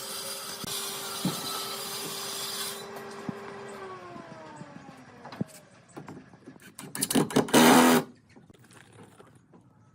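An electric woodworking power tool running at a steady whine with a cutting hiss, then switched off and winding down with a falling pitch over about two seconds. Light knocks follow, and a second short, loud burst of the tool comes about seven seconds in.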